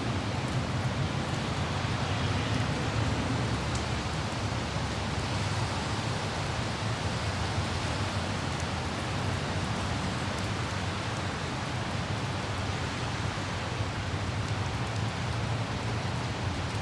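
Light rain falling steadily, with a low, even rumble of road traffic underneath.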